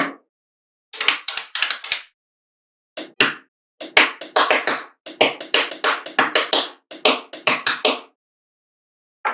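Small neodymium magnetic balls clicking and snapping together as they are set into place. The clicks come in quick clusters of many per second, with short gaps of silence between the clusters.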